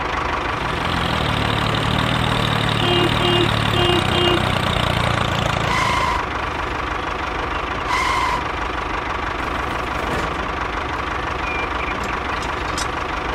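Tractor engine idling steadily, with two short high tones about six and eight seconds in.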